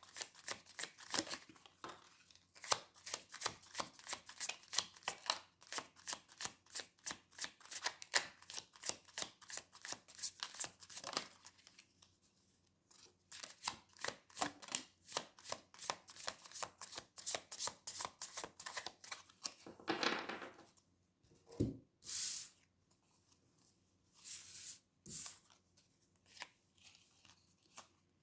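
A deck of tarot cards being shuffled by hand: quick rapid clicking in two long runs with a short pause between them, followed by a few separate swishes as cards are drawn and laid out.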